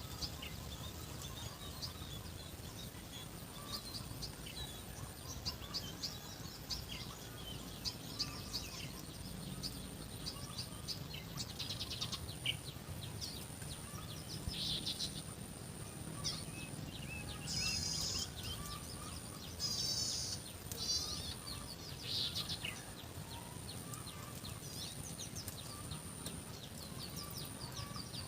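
Several birds chirping and trilling, with short calls coming thickest midway through, over a thin steady high-pitched tone and a soft background hum.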